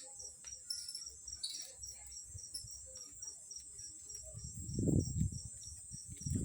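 Crickets chirping steadily in a fast, even pulse. Near the end, a low rumbling noise swells up beneath them.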